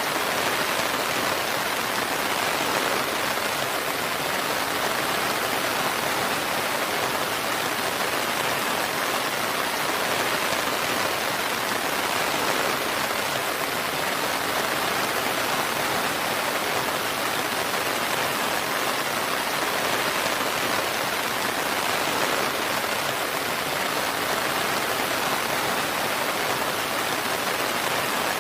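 Steady rain falling, an even unbroken hiss with no thunder or distinct drops standing out.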